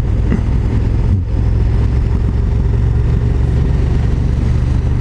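KTM 1290 Super Duke GT's V-twin engine running steadily on the move, with wind and road rush over it.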